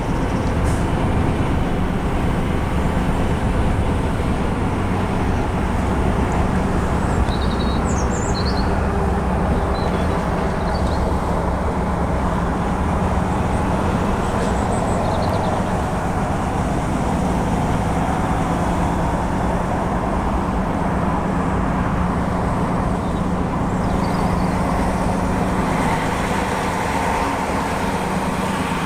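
Articulated lorry's diesel engine running steadily, heard from inside the cab as a constant low hum. A few faint high chirps come about a quarter of the way in.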